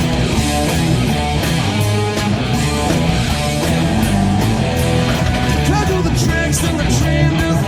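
Rock music: an electric ukulele, played through effects pedals including an octave pedal and pitch shifter, plays the song's riff over a full band track of bass and drums.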